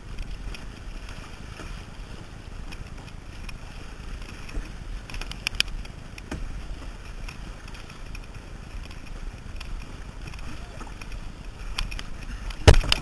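Kayak paddling at sea, with wind rumbling on the microphone throughout. A few sharp clicks come about halfway through, and one loud knock comes just before the end.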